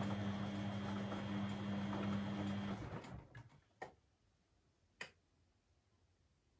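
Beko WMB 71643 PTE washing machine: a steady hum with a rushing noise cuts off about three seconds in, then two sharp clicks about a second apart, and the machine falls quiet.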